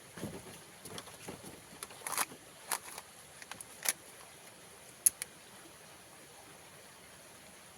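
A few scattered light knocks and clicks, the sharpest about five seconds in, then only a faint steady hiss.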